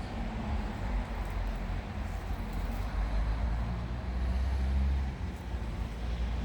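Steady outdoor background noise: a low, uneven rumble with a faint hiss above it.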